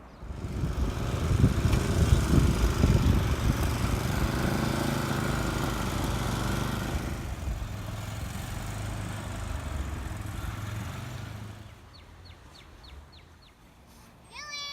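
An engine running, rough and loud at first, then steadier, fading out after about eleven seconds. Near the end come a few quick high ticks and a brief high chirp.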